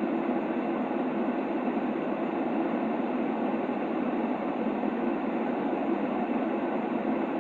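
Steady, unchanging white-noise track for baby sleep: an even rushing hiss weighted toward the low and middle range, with little treble.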